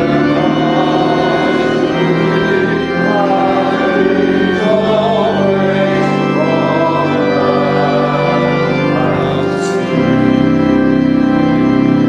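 Church organ playing held chords, with voices singing along. A fuller, louder chord comes in about ten seconds in.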